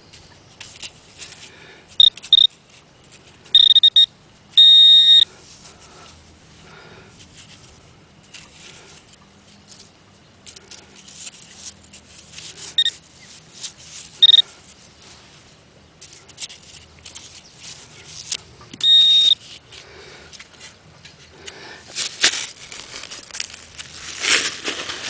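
Garrett Pro-Pointer pinpointer giving short high-pitched beeps as it is probed over a target in the sand: a quick pair about 2 s in, longer tones near 4 and 5 s, then single beeps around 13, 14 and 19 s. Between the beeps comes scratchy scraping and rustling from digging by hand in sand, loudest near the end.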